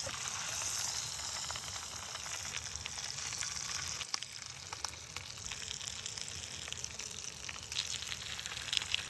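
Brown trout and its roe frying in a pan: a steady sizzle with scattered crackles.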